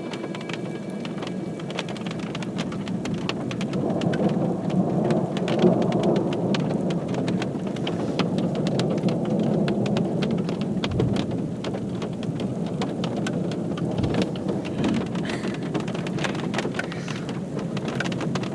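Rain drumming steadily on a car's roof and windshield, a dense patter of drops that grows heavier about four seconds in. A couple of low rumbles come through around eleven and fourteen seconds in.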